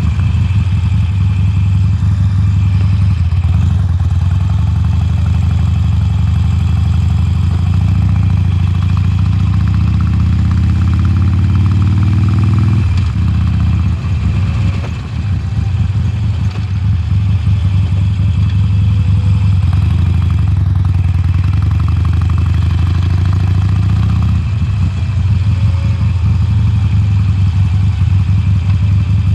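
2020 Harley-Davidson Sportster Forty-Eight's air-cooled 1200 cc V-twin on its stock exhaust, running under way. The engine note climbs over several seconds, drops sharply a little before halfway, and then rises and falls gently for the rest of the ride.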